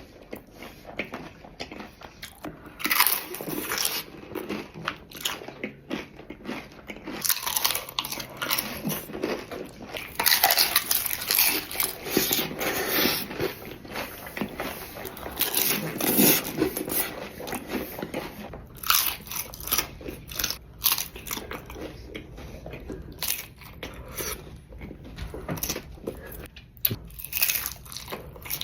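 Person biting into and chewing crunchy nacho tortilla chips, with irregular clusters of crackly crunches between quieter chewing.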